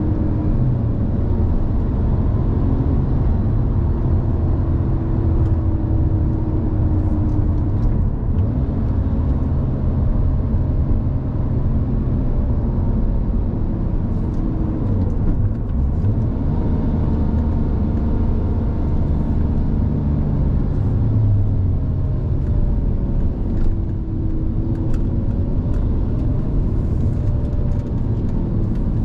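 2007 Porsche 911 Turbo's twin-turbocharged flat-six running under way, with tyre and road noise, heard from inside the cabin; the engine note drifts slowly up and down with no sharp revving.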